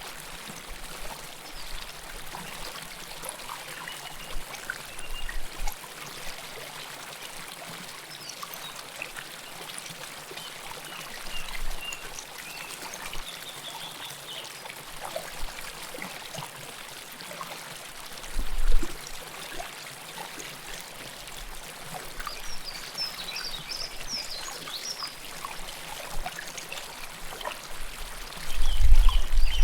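River water flowing and trickling close to the microphone, a steady rushing wash, with a few short high chirps in the last third. A low rumble comes in briefly about two-thirds through and again near the end.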